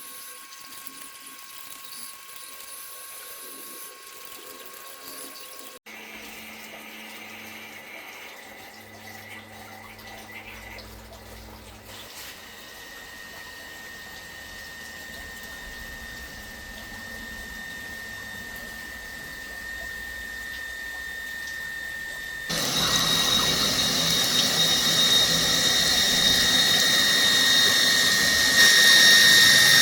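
Electric booster water pump running with water flowing through it, its motor giving a steady whine. The whine grows louder in steps, with a sudden jump about two-thirds of the way in.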